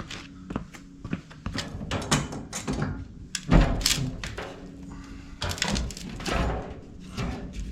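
Irregular knocks and clanks of tools and metal fittings being handled, with one heavy thump about three and a half seconds in, over a steady low hum.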